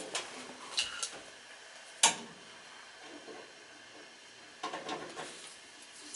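Metal parts and tools being handled while a furnace is reassembled: scattered clicks and clanks, with one sharp knock about two seconds in and a quick run of small knocks near the end.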